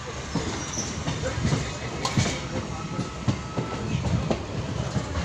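Kolkata suburban EMU local train running: a steady rumble with irregular clacks of the wheels over the rail joints.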